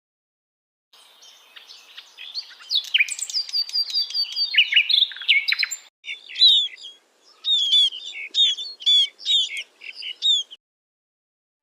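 Songbird singing: quick, clear chirps and whistled notes, first a busy run of trills and falling sweeps, then after a break about halfway through a series of repeated short chirps. It starts about a second in and cuts off cleanly about a second before the end.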